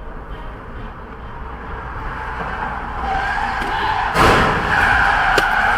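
Car tires skidding and squealing over road rumble, with a sudden loud bang about four seconds in as the squeal goes on.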